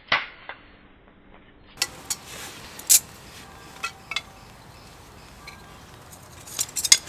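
Pieces of wood being knocked and handled while firewood is prepared: a sharp knock near the start, then scattered clicks and clatter of sticks, with a cluster of knocks near the end.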